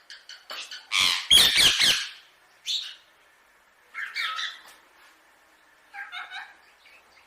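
Indian ringneck parakeet squawking in short, harsh bursts: the loudest, longest burst comes about a second in, followed by three shorter calls spaced a second or so apart.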